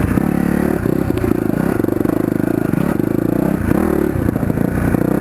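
1999 Yamaha YZ400F's single-cylinder four-stroke engine running steadily as the dirt bike is ridden along a trail, with the revs shifting about four seconds in.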